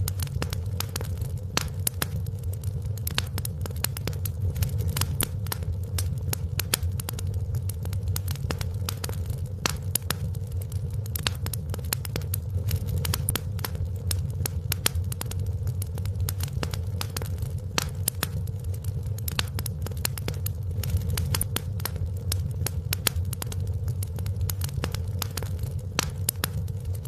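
Wood fire crackling steadily in a fireplace, with many small irregular pops and snaps over a low steady rumble of the burning.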